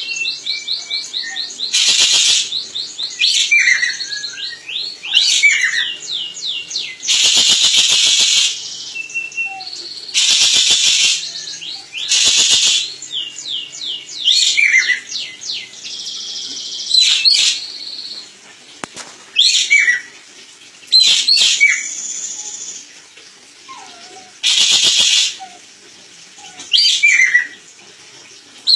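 Ekek keling bird calling: harsh, rasping calls about a second long, repeated several times, alternating with quick series of high chirps and sharp downward-swooping whistles.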